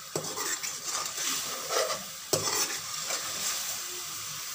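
Chicken, yoghurt and ground spices sizzling in an aluminium karahi as a metal ladle stirs and scrapes through them during the bhuna (roasting) stage. The ladle knocks sharply against the pan twice, just after the start and about two seconds in.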